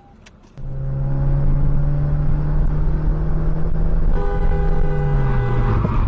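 A car horn sounding continuously for about five seconds, a steady held tone over a low rumble, with a second horn tone joining about four seconds in.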